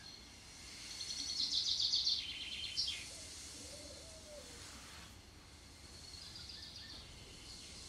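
A small songbird singing a fast, high trill about a second in, ending in a downward slide, then a fainter trill near the end, over a steady faint hiss.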